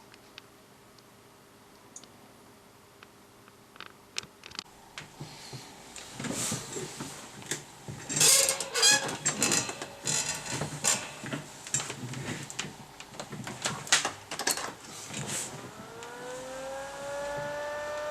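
Clicks and clattering of parts and tools being handled. Near the end a small electric motor spins up, its whine rising and then holding steady.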